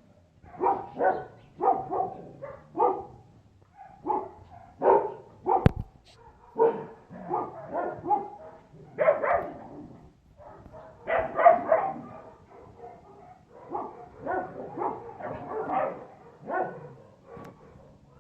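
Dogs barking over and over in short runs, with a sharp click about six seconds in.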